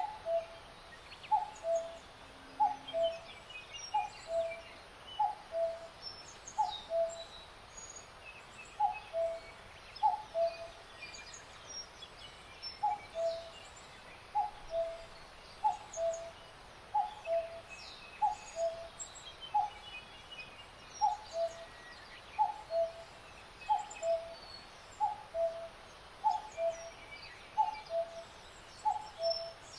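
Birdsong: one bird repeats a two-note call, a higher note dropping to a lower one, about every second and a half. Faint high chirps of small songbirds sound behind it.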